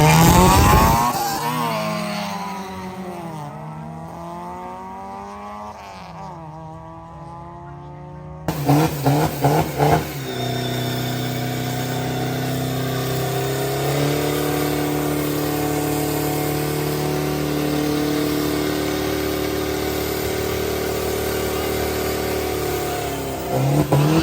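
Car engines at a car meet, revved with rising and falling pitch as one fades away. After a cut there are a few quick throttle blips, then an engine held at a steady speed for over ten seconds, then more blips near the end.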